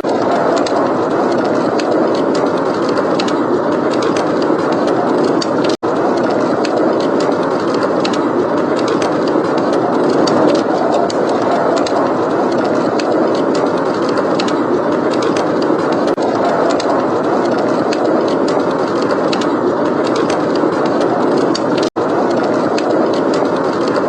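Steady rushing blizzard wind with fireplace crackling: small crackles and pops scattered through the dense wind noise. The sound cuts out for an instant twice.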